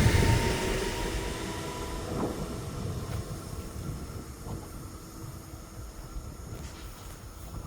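A train moving away along the line, its rumble fading steadily, with a few faint clicks from the wheels on the rails.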